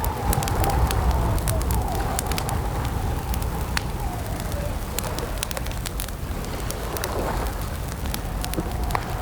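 Campfire crackling: irregular sharp pops and snaps over a steady low rumble, with a faint wavering whistle-like tone underneath.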